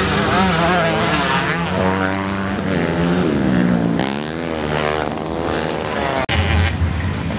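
Grasstrack motocross motorcycle engines revving hard, pitch rising and falling again and again as the riders accelerate and shift. There is a sudden break about six seconds in, after which the engine sound carries on.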